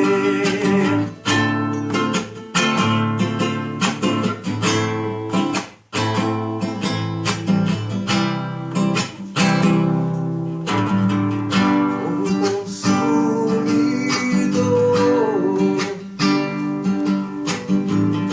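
Instrumental passage of a song: strummed acoustic guitar chords, cutting off briefly about six seconds in before the strumming resumes.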